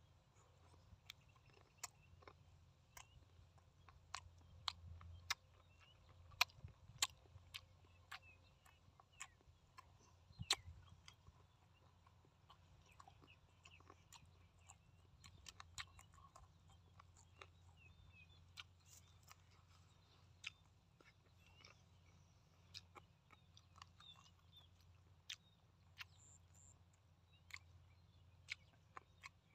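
A man chewing soft braised pork close to the microphone, with his mouth closed. It is quiet overall, with frequent sharp wet clicks and smacks at an irregular pace, busiest a few seconds in.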